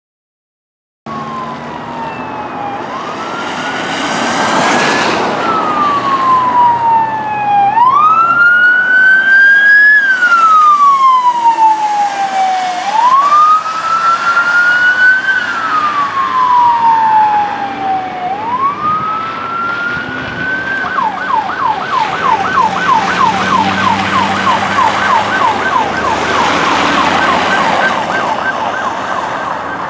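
Electronic emergency-vehicle siren in a slow wail, rising and falling about every five seconds. About two-thirds through it switches to a fast yelp of about four sweeps a second. Road and engine noise from the passing trucks swells twice.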